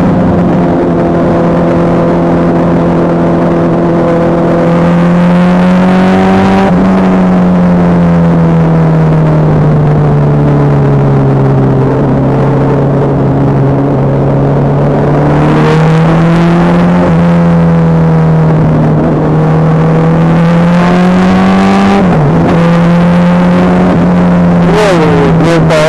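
Honda CBR650F's inline-four engine running steadily while the bike is ridden, its revs rising and falling gently, with a few quick pitch changes near the end.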